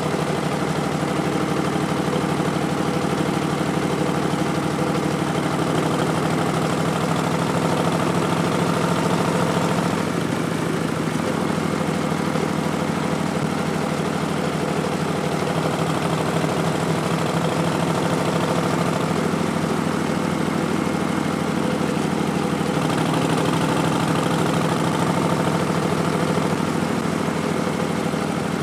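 Harley-Davidson Street Bob's Milwaukee-Eight 107 V-twin running through Vance & Hines Twin Slash slip-on mufflers, a steady engine note with a few small shifts in pitch, the clearest a drop about ten seconds in.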